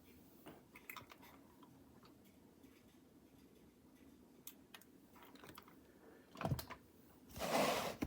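Light scattered clicks and taps of small plastic parts being handled, with a soft thud and then a louder brief rustle near the end.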